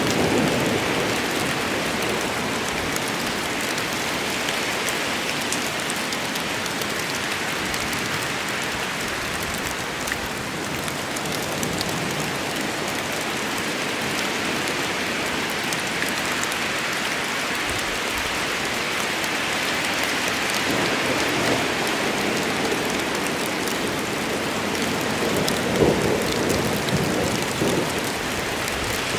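Rain storm: steady, heavy rain falling, with thunder rumbling low and dying away in the first moment and a fainter rumble again near the end.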